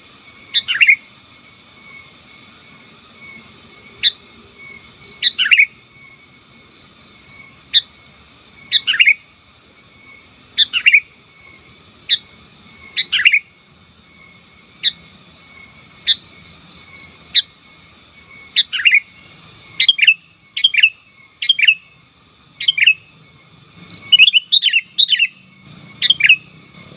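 Sooty-headed bulbul calling in short, loud downward-slurred notes, singly or in quick pairs every second or two, coming faster and bunched together near the end. A steady high insect trill runs behind.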